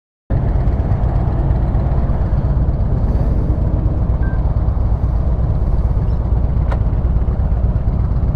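Motorcycle engine running steadily under way, a low rumble mixed with wind and road noise, cutting in abruptly a moment in.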